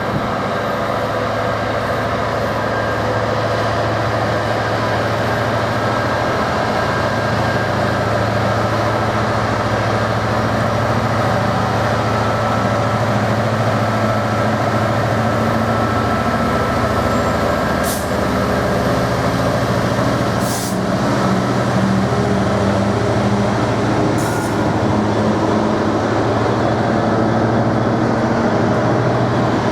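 Two Class 66 diesel-electric locomotives working together under power, their two-stroke V12 engines giving a steady, loud drone. There are three brief sharp sounds about two-thirds of the way through.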